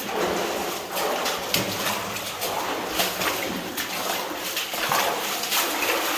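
Water sloshing and splashing in irregular strokes as someone wades through shallow water in an old mine tunnel.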